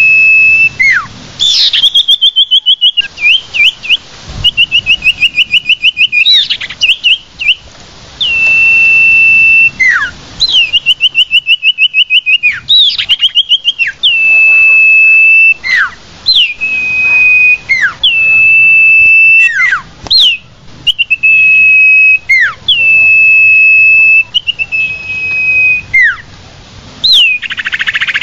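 Common iora (cipoh) singing: long, steady, high whistles, each ending in a sharp downward slur, alternating with fast trilled runs. This is the song used as a lure call to attract wild ioras.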